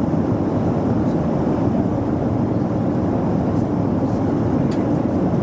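Steady cabin noise of a Boeing 737-400 in flight: a low, even rush of engine and airflow, with a faint click about three-quarters of the way in.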